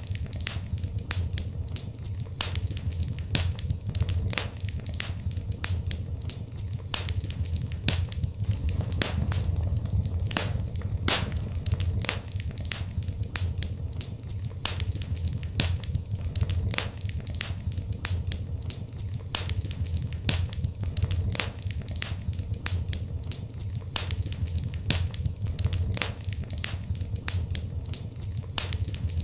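Wood fire in a fireplace crackling: many sharp irregular pops and snaps over a steady low rumble of the burning.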